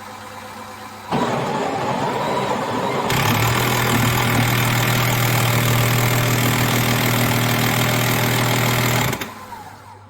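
Sage Oracle Touch espresso machine running: a loud mechanical noise starts about a second in, grows fuller with a steady low hum about three seconds later, and stops about nine seconds in.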